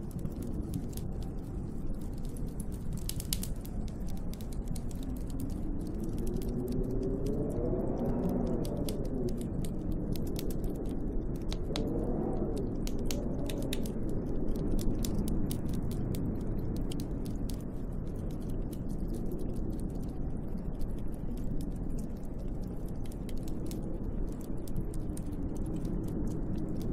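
Snowstorm wind rushing steadily and howling, its pitch rising and falling in slow swells, loudest about 8 and 12 seconds in. Many faint small ticks run through it.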